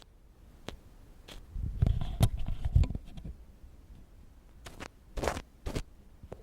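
Ear-cleaning ASMR: an ear pick scraping and rubbing close against a microphone. There are a few scattered clicks, a louder stretch of crackly scraping about two seconds in, and several short scrapes near the end.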